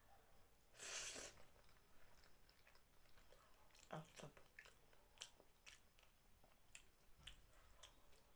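Faint mouth sounds of a person chewing and eating soft food, with scattered small clicks and smacks and a brief louder rush of noise about a second in.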